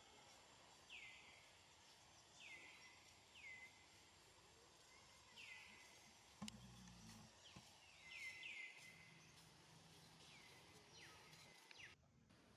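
Faint outdoor ambience with a bird's short downward chirps repeating about ten times at irregular intervals, over a faint steady high whine. A brief low thud comes about six and a half seconds in, and the background drops away suddenly near the end.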